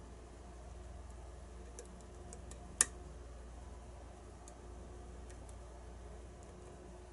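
Faint scattered ticks of a lock pick working the pins inside a challenge lock, with one sharper metallic click a little under three seconds in, over a low steady hum.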